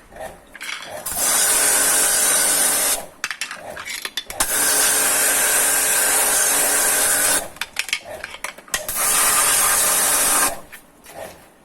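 Pressure washer spraying water in three bursts, about two, three and one and a half seconds long, each a steady hiss over a motor hum that starts and stops abruptly.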